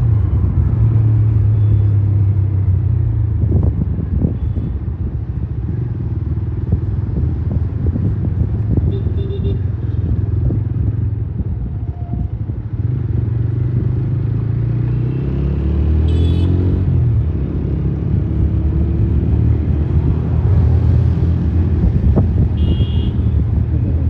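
Motorcycle engine running while riding through road traffic, its pitch dipping and then rising again a little past the middle as the speed changes. A few short high beeps sound over it, the clearest about two-thirds in and near the end.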